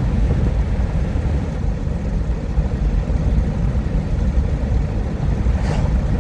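Steady road and engine noise inside a car cruising at highway speed, about 64 mph: an even low rumble of tyres and engine.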